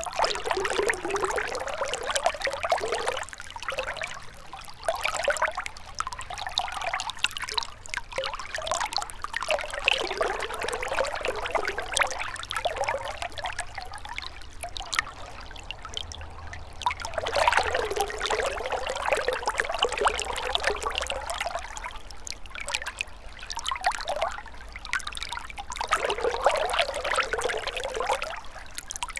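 Gentle river water babbling and trickling over stones, swelling and ebbing every few seconds.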